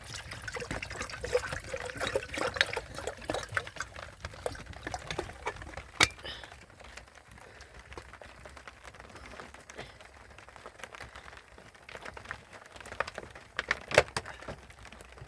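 Water pouring and trickling, with scattered small clicks and knocks. A sharp knock comes about six seconds in and another near the end.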